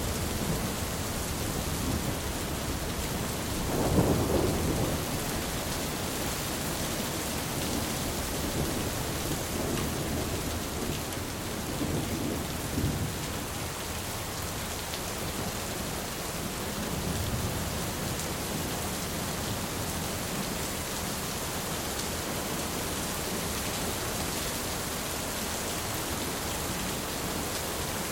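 Steady heavy rain with rolling thunder: a low rumble swells about four seconds in, with fainter rumbles rolling through later.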